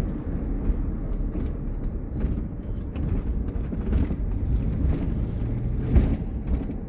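Steady low engine and road rumble heard from inside the cab of a moving vehicle, with scattered small knocks and rattles.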